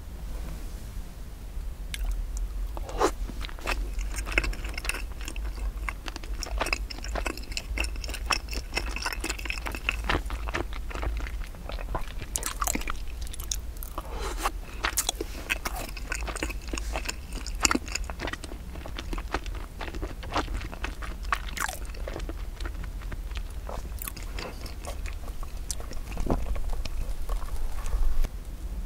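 Close-miked chewing and biting of a crumb-coated cream-filled glutinous rice cake ball (cream chapssal-tteok), with many small crunches and clicks.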